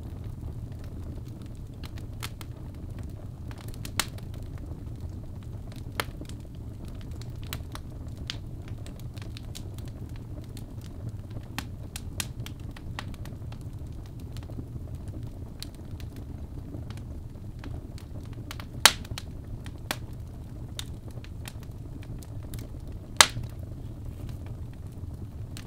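Birch logs burning in a fireplace: a steady low rumble of flame with scattered sharp crackles and pops, two of them louder, near the middle and towards the end.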